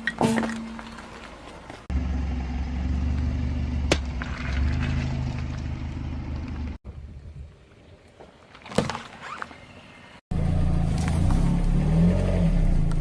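Car engine running low and steady in short cut-together clips, with a few sharp single cracks and pops as objects are crushed under its tyres.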